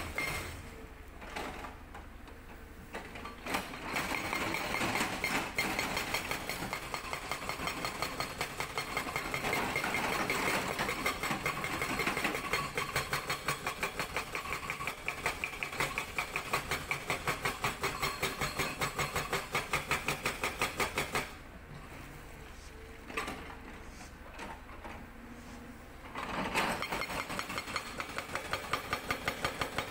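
Hydraulic rock breaker (Sangdo SD220) on a CAT 320D excavator hammering rock in a rapid, even series of blows over the running engine. The hammering stops for about five seconds near the two-thirds mark, then starts again.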